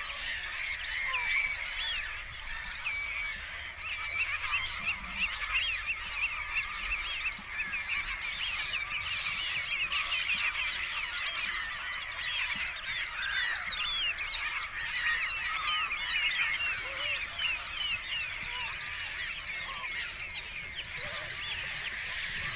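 A large flock of birds calling together: a dense, continuous chorus of many short, overlapping calls.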